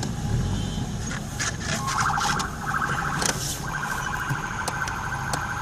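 Police car siren in a rapid warble, coming in about two seconds in, breaking off briefly and resuming, over a car engine's low rumble. A sharp crack sounds about three seconds in.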